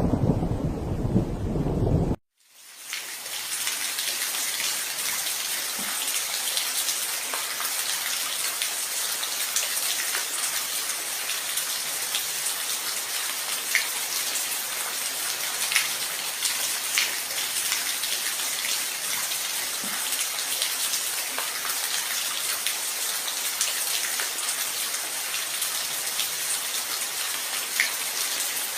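Thunderstorm rain: a heavy low rumble of thunder and rain cuts off suddenly about two seconds in. After a brief dropout, steady rain fades back in, with scattered individual drops ticking through it.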